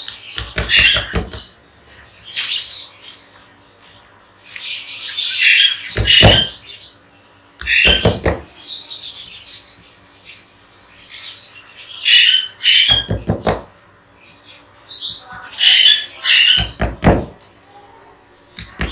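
Pet parrots chirping and squawking in bursts. Between them come short runs of quick knife strikes on a cutting board as green chillies are cut into pieces.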